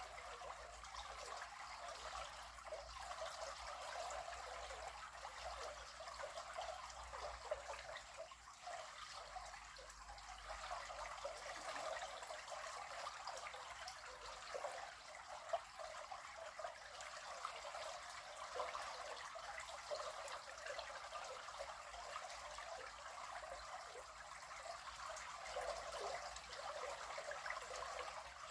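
River water flowing and burbling steadily.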